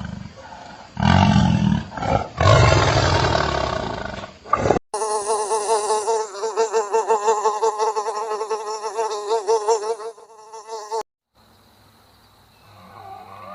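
Three loud, rough animal calls cut off abruptly. A wavering buzz follows for about six seconds, stops, and faint gliding music begins near the end.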